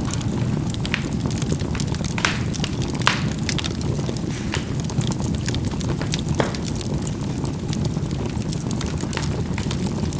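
Charcoal burning in a fireplace: a steady low rush of fire with scattered sharp crackles and pops as the coals burst, a few of them louder than the rest.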